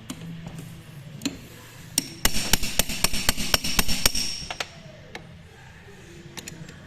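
Hammer striking metal in a rapid run of about fifteen blows over two and a half seconds, starting about two seconds in. Each blow rings sharply.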